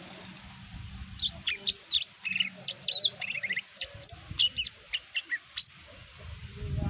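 Green leafbird (cucak ijo) singing a rapid, varied run of sharp chirps, short whistled notes and quick trills.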